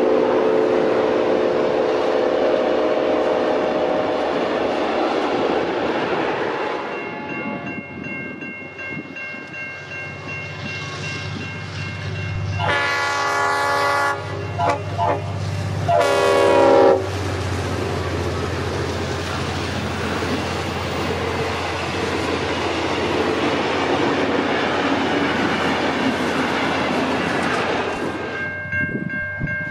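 Train passing with its diesel locomotive's horn sounding twice about halfway through, a longer blast and then a shorter one that drops in pitch, over steady wheel and engine noise.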